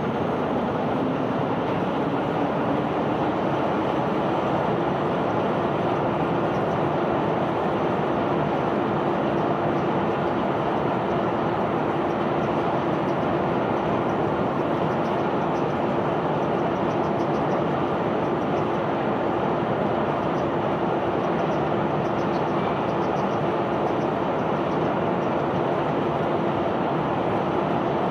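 Self-unloading barge's discharge machinery running steadily under a continuous rushing noise, as of cargo moving. A motor's hum rises in pitch over the first few seconds, then holds steady.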